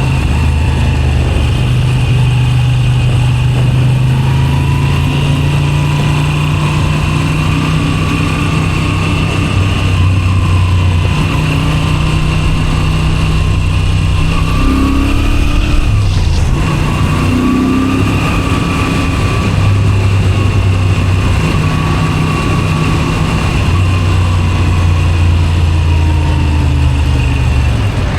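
Moto Guzzi V7 Special 850 air-cooled transverse V-twin running through a Zard exhaust while riding at a steady pace. About sixteen seconds in the engine note breaks off briefly, then pulls up again.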